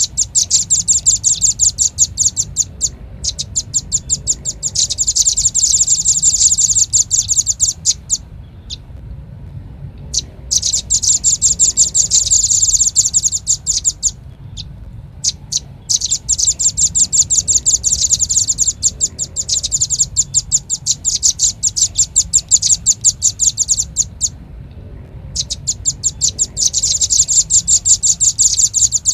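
Velvet-fronted nuthatch (rambatan paruh merah) calling, played from a bird-lure recording: rapid trills of sharp, high chips in bursts of several seconds, broken by short pauses, over a faint low hum.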